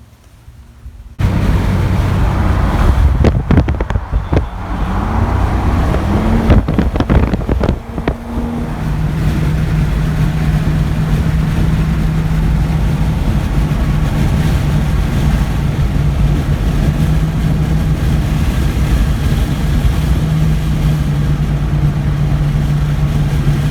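A car driving: engine and wind noise start abruptly about a second in. There are knocks and short rising engine notes over the next several seconds, then a steady low engine drone.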